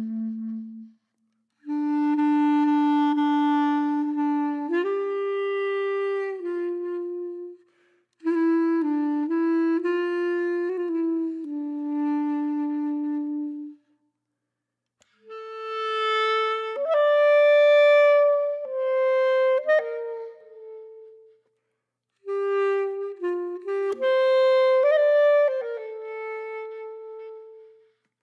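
Background music: a solo woodwind melody, clarinet-like in tone, played in phrases of a few seconds separated by short pauses.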